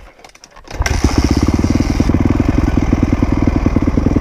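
Dirt bike engine starting suddenly about a second in, then running steadily and loudly with a quick, even firing beat.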